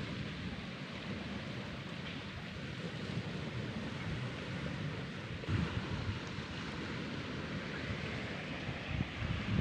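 Balls rolling along a marble run track: a steady rolling rumble, with a knock about five and a half seconds in.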